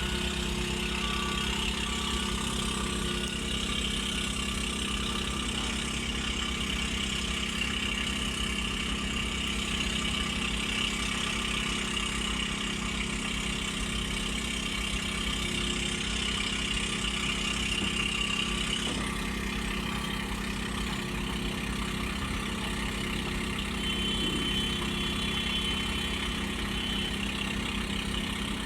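Diesel engine of heavy construction machinery running steadily, an even engine hum with no revving.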